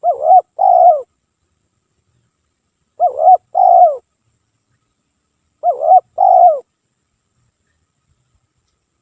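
Spotted dove cooing its song three times, about three seconds apart; each phrase is a short note followed by a longer note that falls in pitch.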